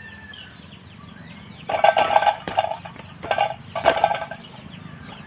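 Chicken clucking in four short loud bursts over about two and a half seconds, with small birds chirping faintly in the background.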